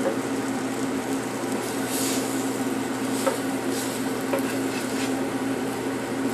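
Flour-dredged liver frying in bacon fat and butter in a pan, a steady sizzle with a few short utensil clicks and scrapes against the pan. A steady hum runs underneath.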